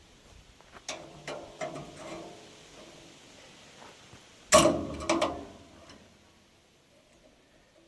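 Metal clicks and clanks from handling a baler's roller chain and its tensioner, with one loud metal clank about four and a half seconds in.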